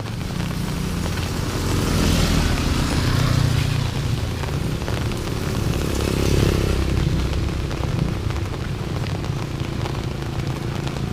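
Motorcycle engine running close by, its sound swelling about two seconds in and again around six seconds.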